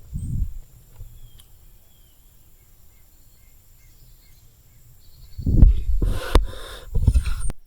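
A low bump, then a quiet stretch with a few faint bird chirps, then about two seconds of loud rustling and handling close to the microphone with one sharp click, cutting off suddenly near the end.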